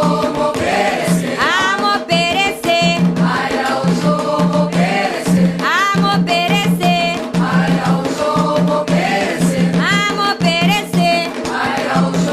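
A group singing a Candomblé Ketu chant for Xangô in Yoruba, accompanied by drums and percussion beating a steady rhythm.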